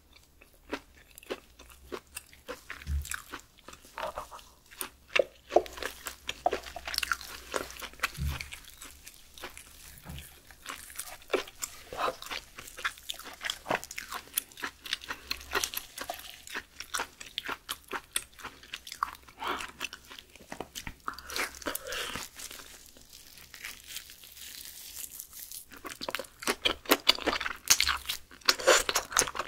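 Close-miked wet chewing and mouth sounds of someone eating raw beef skirt (yukhoe) dressed with egg yolk: many soft clicks and smacks, sparser for a few seconds past the middle and busiest near the end.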